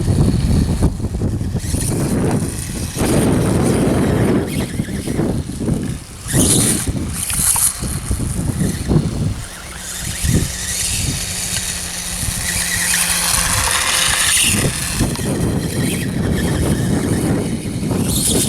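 Electric RC dirt bike riding, its motor giving a high whine that rises and falls as it speeds up and slows. Heavy rumble and wind on the microphone run underneath.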